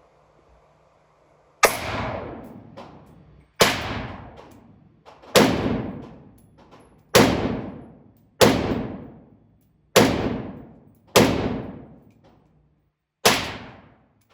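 Eight gunshots from a firearm, fired one at a time at an unhurried pace, about one to two seconds apart. Each shot is a sharp crack followed by a long echoing decay.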